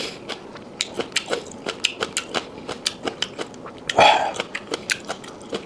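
Close-miked chewing of soft chicken liver: a rapid run of wet mouth clicks and smacks, about four or five a second. A louder, breathy burst comes about four seconds in.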